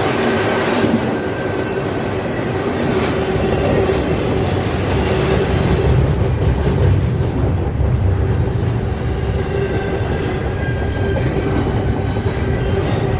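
CSX intermodal freight train rolling past at close range: a steady rumble of wheels on rail, with a held tone over it.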